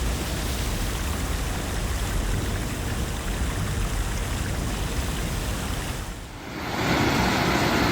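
Fast-flowing, sediment-laden muddy floodwater rushing steadily. A little after six seconds in, the noise dips for a moment and a louder rushing noise takes over.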